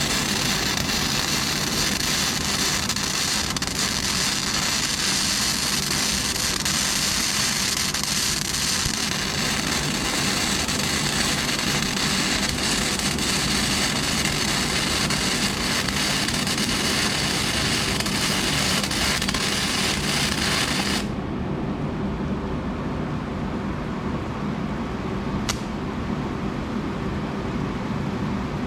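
Flux-core wire welding arc from a Lincoln Weld-Pak 90i, crackling and sizzling steadily for about twenty seconds, then stopping abruptly, leaving a lower steady hum with one sharp tick a few seconds later.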